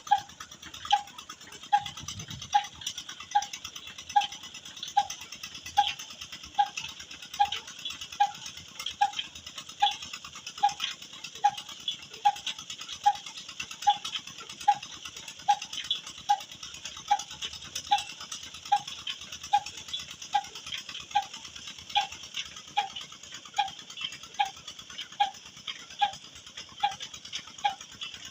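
Old single-cylinder Ruston stationary engine running slowly and steadily, driving a tubewell pump, with an even, sharp beat a little more than once a second over a steady hiss.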